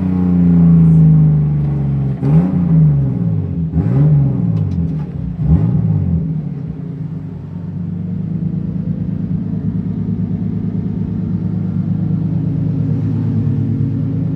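BMW E36 M3 race car's engine being revved. Its pitch falls from a high rev, rises and falls in three quick blips in the first six seconds, then holds steady at a low, even speed.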